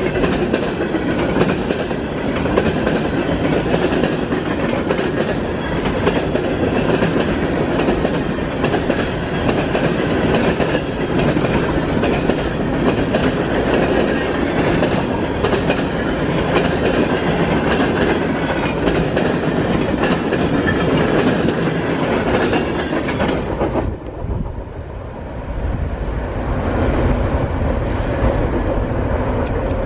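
Freight cars of CSX train M-426 rolling past at speed, wheels clacking over rail joints in a steady rhythm. About 24 seconds in, the train's sound drops away suddenly and a low rumble is left.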